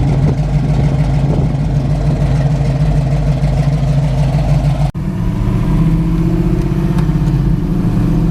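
Chevrolet Nova hot rod's engine running steadily. About five seconds in the sound breaks off for an instant. The engine then carries on with its note rising slightly.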